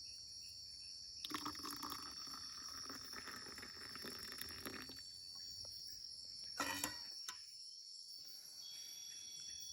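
Boiled water being poured for a few seconds, starting about a second in, over steady chirring of forest insects. A short knock comes near the end.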